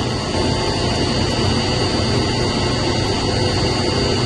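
Steady drone of running water pumps and their motors in a chiller plant room, with a thin, steady high whine over it.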